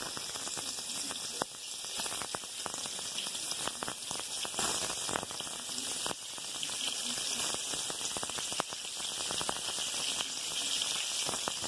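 Sliced onions and green bell peppers sizzling in hot oil in a skillet: a steady frying hiss full of small pops and crackles.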